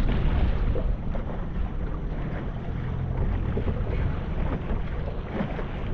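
Strong wind blowing across the microphone on an open boat: a steady low rumble with rushing noise over it.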